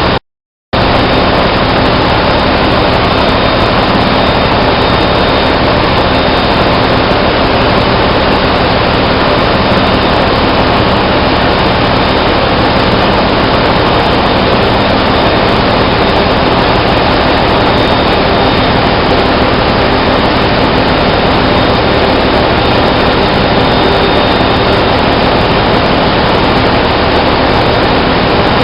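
Loud, steady machinery din with a few faint steady hums running under it, the kind of continuous noise of running engines and pumps in a ship's engine room. The sound cuts out completely for about half a second right at the start.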